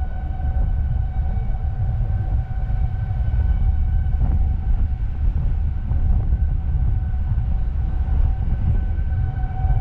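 A siren holding one steady pitch, fading somewhat in the middle and swelling back, over a heavy low rumble.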